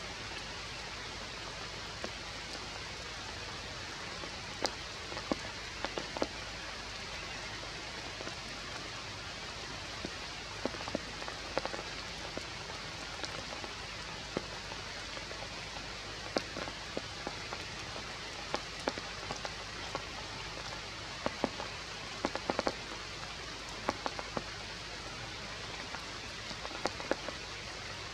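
Steady rain falling on forest leaves, a constant hiss with sharp single drop hits scattered irregularly throughout.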